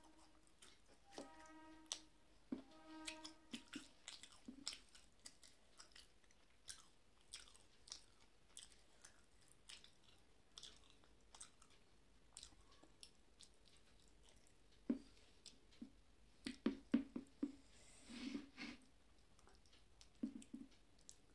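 Close-miked eating by hand: soft chewing, lip smacks and wet finger-licking clicks, with a louder run of smacks and sucks about fifteen to nineteen seconds in.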